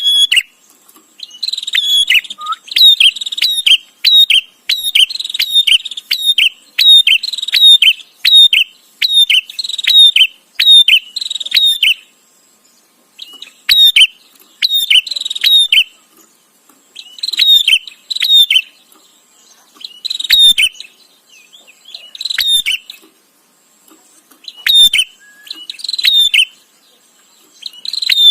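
Prinia (prenjak) calling in insistent runs of sharp, rapidly repeated chirps; the calling is almost continuous for the first twelve seconds, then comes in shorter bursts with pauses between them.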